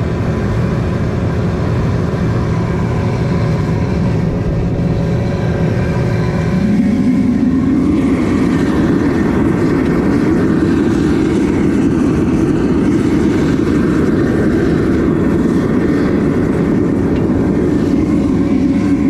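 Gas burner firing into a crucible furnace on its first heat-up, a loud steady rushing flame noise with a few faint steady tones in it. About six and a half seconds in, a deeper rumble swells up and holds, as the flame burns harder.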